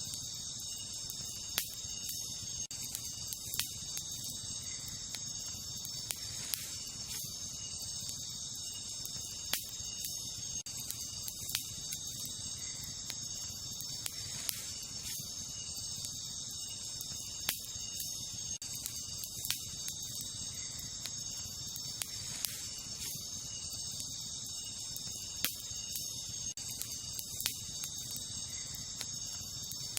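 Wood campfire burning with a low rush and sharp crackling pops every couple of seconds, over a steady, high chorus of night insects such as crickets.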